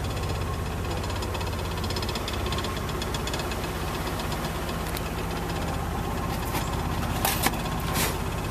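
1960 Chevrolet Bel Air engine idling steadily, with a few light clicks near the end.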